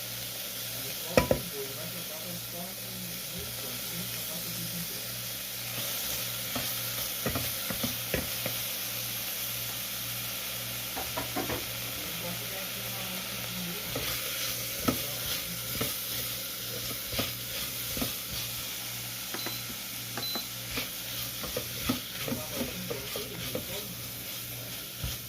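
Food sizzling as it fries in a pan, a steady hiss, with a utensil knocking and scraping against the pan at irregular moments, more often in the second half.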